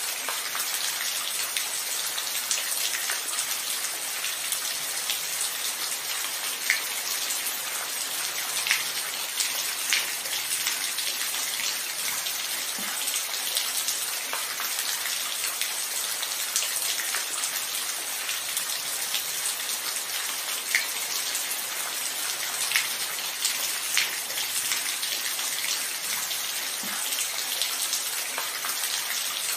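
Steady rain falling, an even hiss with scattered louder drips and drops ticking close by.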